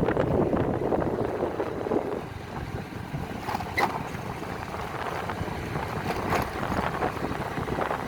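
Wind buffeting the microphone: a rough rumbling noise that eases after about two seconds, with a few faint clicks later on.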